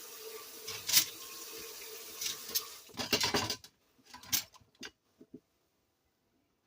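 Kitchen cleanup clatter: a steady hiss with sharp knocks and scrapes of cookware, which cuts off suddenly about three and a half seconds in, followed by a few faint knocks.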